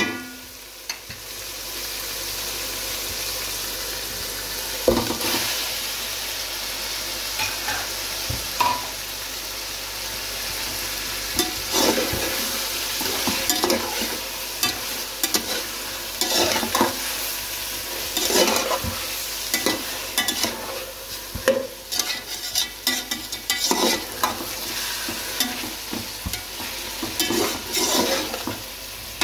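Food sizzling as it fries in a hot pan, with a cooking utensil scraping and knocking against the pan again and again as the food is stirred, more often in the second half.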